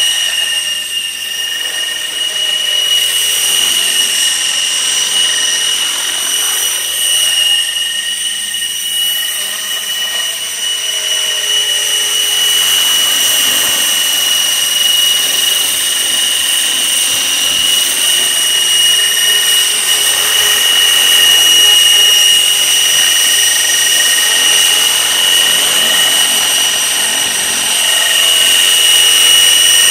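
Outrage Fusion 50 RC helicopter in flight: a steady high-pitched whine from its engine and rotors, wavering slightly in pitch and getting a little louder in the last third.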